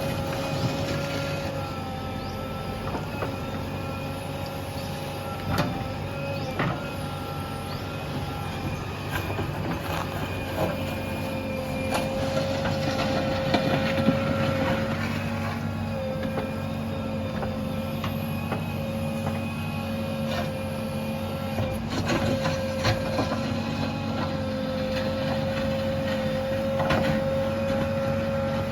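JCB backhoe loader's diesel engine running steadily with a held hydraulic whine that breaks off and resumes several times as the hydraulics are worked. Scattered sharp metallic knocks throughout.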